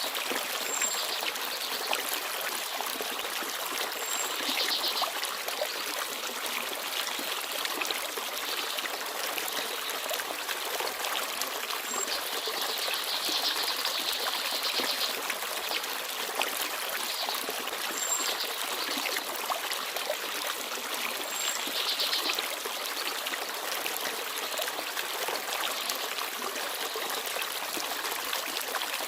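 Forest stream babbling and trickling steadily, with small birds chirping now and then: a few brief high notes and short trills over the water.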